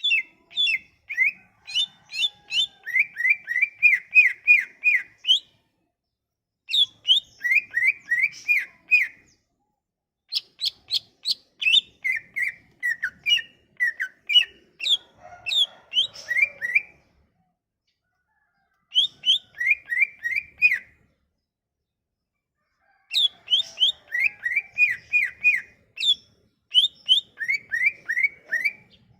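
A cucak ijo (green leafbird) singing loud, in full song. It gives five phrases of rapid, down-slurred whistled notes, about four a second, with short pauses between phrases.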